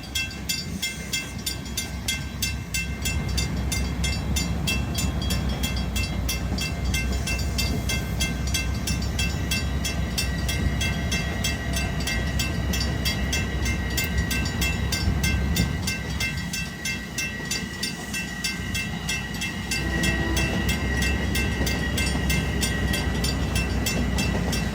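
Long Island Rail Road train running through the station: a steady low rumble with a steady high whine and fast, even clicking, easing briefly about two-thirds of the way through.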